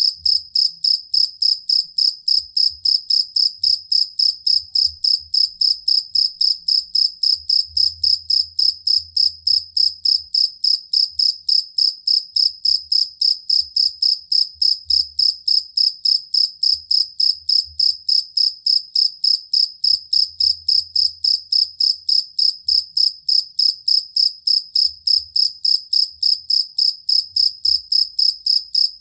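Field cricket calling: a steady, unbroken string of high, even chirps, about three a second.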